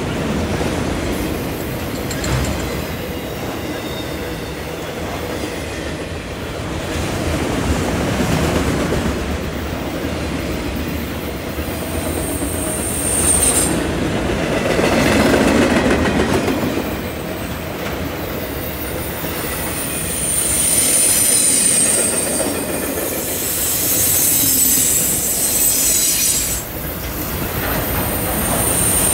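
Freight train of autorack cars rolling past: a steady rumble of steel wheels on rail, with a high-pitched wheel squeal coming in a few times, about halfway through and again near the end.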